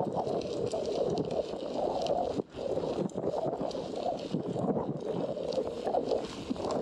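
Wind buffeting the microphone on a bicycle ride, a rushing noise that rises and falls in gusts and dips briefly about two and a half seconds in.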